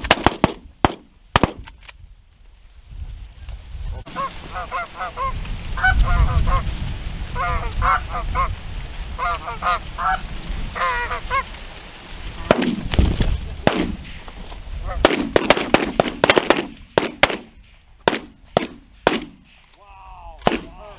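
Shotgun shots, then geese honking in repeated clusters of calls for several seconds, then another run of shotgun shots, several close together, through the second half.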